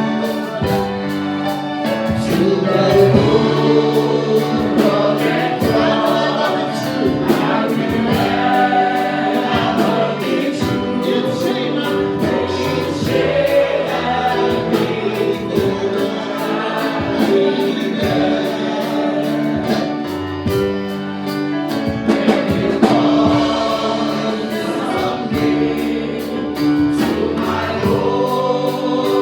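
A group of voices singing a gospel worship song over instrumental accompaniment with a steady beat.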